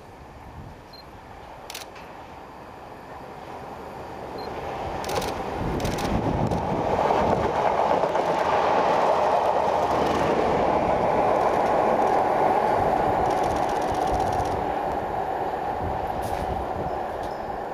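Network Rail test train, DBSO driving trailer 9703 with Class 31 diesel locomotive 31602, passing by. The rumble of wheels on rail builds over the first few seconds, is loudest as the train goes past, and fades away near the end.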